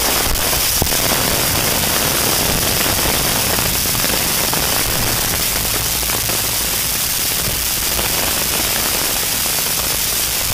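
Heavy thunderstorm rain falling steadily, a dense even hiss with a crackle of drops hitting surfaces.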